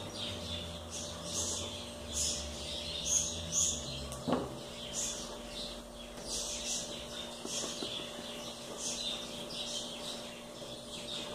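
Birds chirping in short, high, repeated calls, over a faint steady hum; one sharp knock about four seconds in.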